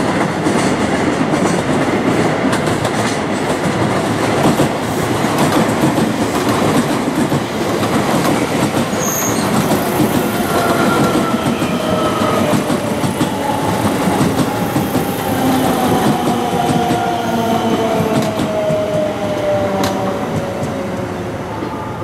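Trains running past at close range. A container freight train's wagons clatter over the rail joints, and a Haruka limited express electric train passes close by. From about halfway, a whine from the passing train slowly falls in pitch, and the noise eases off near the end.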